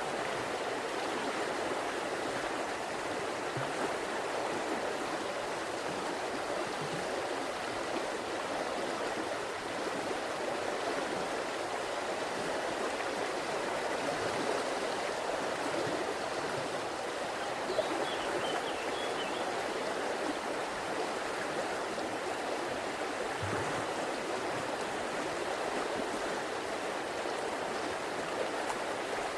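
River water flowing and rushing steadily over rocks, an even, unbroken water sound.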